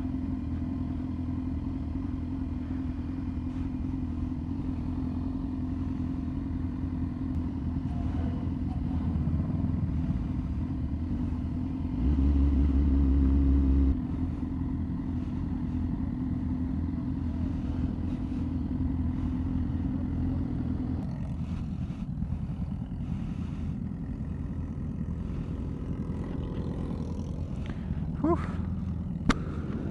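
Yamaha R6 motorcycle's inline-four engine running steadily at low revs while riding slowly. It gets louder for about two seconds around twelve seconds in, and its tone changes about twenty-one seconds in.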